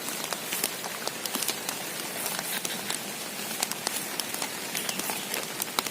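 Steady rain falling, with many sharp irregular ticks of drops striking close by.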